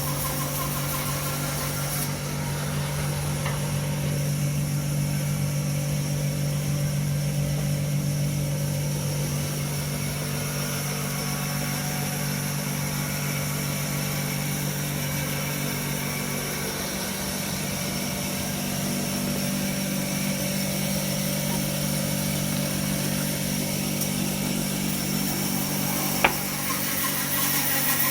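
Power saw running steadily while cutting purpleheart wood, a steady hum whose pitch shifts about two-thirds of the way through. A single sharp click near the end.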